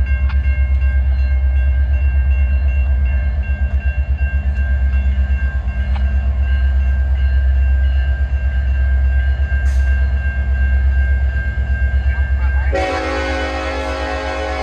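Norfolk Southern freight train approaching with a heavy, pulsing low rumble. Near the end its locomotive air horn comes in loudly as a sustained chord.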